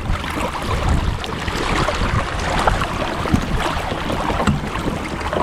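Water splashing and sloshing beside a kayak as a landing net is worked through it, with scattered knocks and wind rumbling on the microphone.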